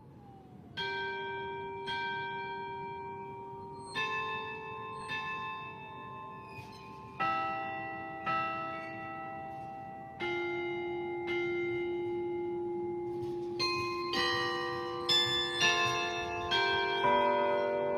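Carillon bells played from the keyboard: single notes struck about a second apart at first, each ringing on and slowly dying away, with the notes coming closer together and several bells sounding at once near the end.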